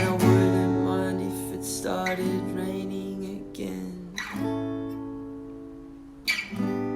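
Acoustic guitar in drop-D tuning (D A D G B E) strumming a handful of slow chords, each left to ring out and fade, with a last chord near the end: the song's closing bars.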